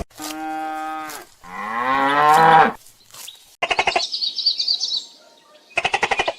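Cattle mooing twice: a short, steady call, then a longer one that bends up in pitch. From about three and a half seconds in comes a different, rapidly pulsing animal call, heard twice, with high chirping above it.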